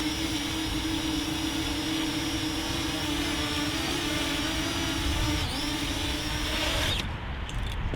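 Small camera quadcopter's propellers and motors running steadily in flight: a steady hum with a thin high whine above it, wavering slightly in pitch. The high whine cuts off suddenly about seven seconds in.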